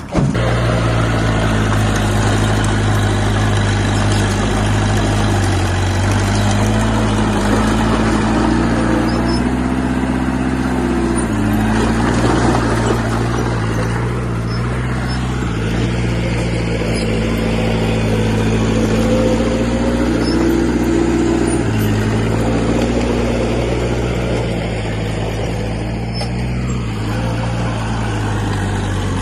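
Diesel engine of heavy earthmoving equipment running hard under load, its pitch stepping up and down several times as the load changes, over a steady clatter of machinery.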